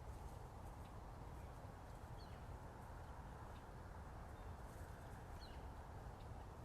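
A few faint, short bird chirps, scattered and widely spaced, over a steady low background hiss and rumble.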